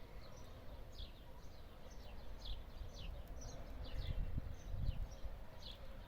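Small birds chirping on and off, many short quick notes that each slide down in pitch, over a low rumble that swells about four seconds in.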